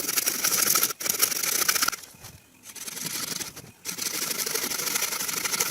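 Bow saw cutting into the trunk of a dry standing tree, making the first cut of the felling, in long back-and-forth strokes with a short pause near the middle.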